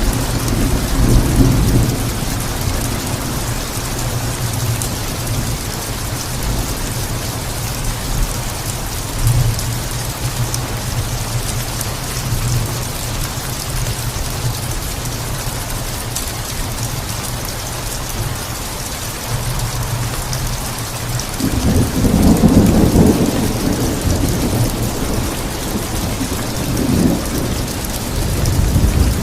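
Steady heavy rain falling, with rolls of thunder: a low rumble near the start and a louder roll swelling about two-thirds of the way through, then a smaller one near the end.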